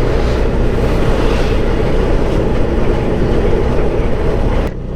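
Benelli motorcycle under way on a dusty dirt track: the engine runs steadily beneath heavy wind and road noise on the microphone, dipping briefly near the end.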